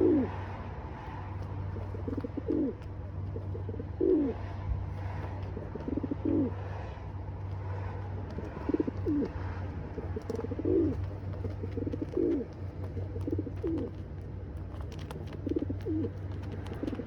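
Pigeon cooing repeatedly, a short low call about every one to two seconds, over a steady low hum.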